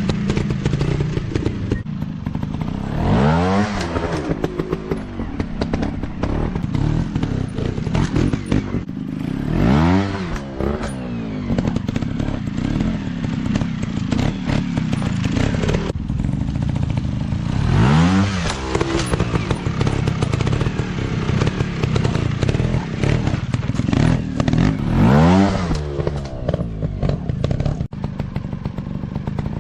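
Dirt bike engine running, revved hard about five times; each rev climbs steeply in pitch and drops back.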